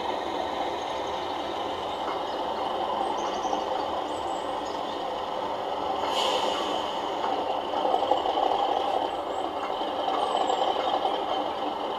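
Class 37 diesel locomotive engine sound played from the model's DCC sound decoder through its small onboard speaker, running steadily with its loudness swelling and easing. There is a short hiss about six seconds in.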